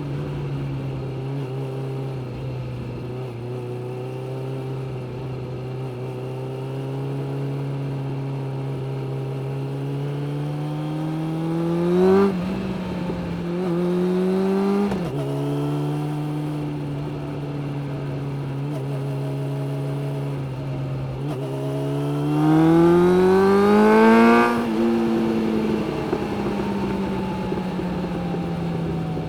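Suzuki GSX-600F inline-four motorcycle engine on the move. It holds a steady note, then the revs climb and drop back twice, and near the end they climb more steeply and louder before falling away as the throttle closes.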